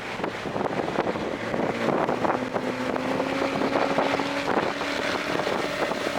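2024 Toyota GR Corolla's turbocharged three-cylinder engine pulling on track, its note climbing slowly as the car accelerates. Wind and road noise buffet the microphone heavily.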